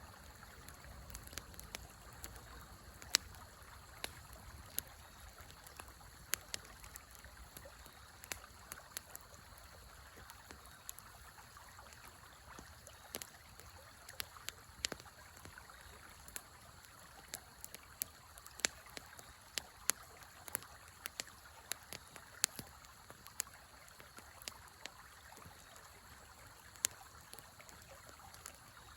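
Wood fire in a fire pit crackling, with sharp irregular pops about once or twice a second, over the steady rush of a river.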